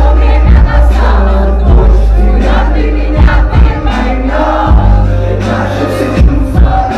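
Live pop music from a concert stage, loud through the PA, with a heavy bass line, a drum beat and voices singing along, which may be the crowd.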